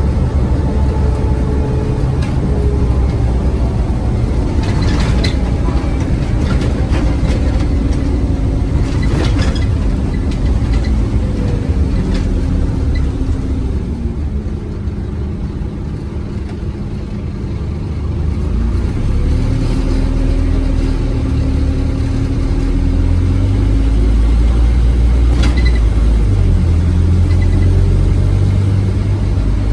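Scania OmniCity single-deck bus engine heard from on board: the engine note falls away as the bus eases off, runs quieter for a few seconds in the middle, then the engine pulls hard again and grows louder. A few sharp rattles or knocks from the bus body come through along the way.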